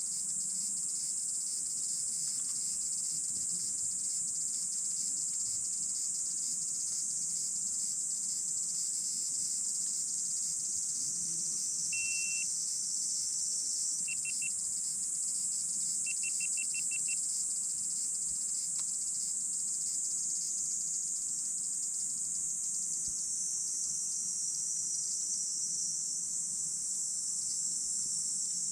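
A steady, high-pitched chorus of insects shrilling without a break. In the middle come a few short, higher chirps: one, then three, then a quick run of about seven.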